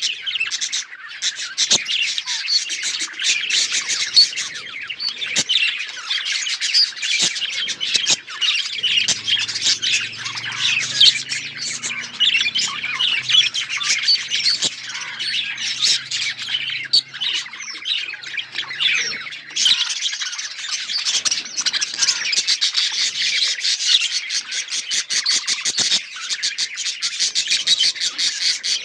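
A flock of budgerigars chirping and chattering, many overlapping calls with sharp squawks mixed in, steady throughout.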